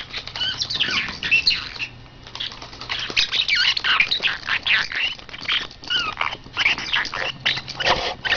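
Pet parrot chattering with a rapid run of short squawks and chirps that slide up and down in pitch.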